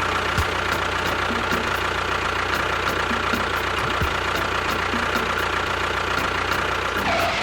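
Engine, in the manner of a tractor's diesel, idling steadily with an even knock, then cutting off suddenly at the end.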